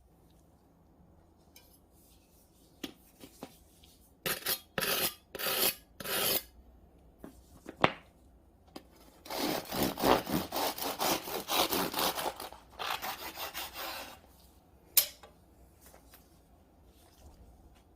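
Serrated bread knife sawing through a baked loaf with a crisp biscuit crust: four short rasping strokes, then a longer dense run of rasping, with a sharp click near the end.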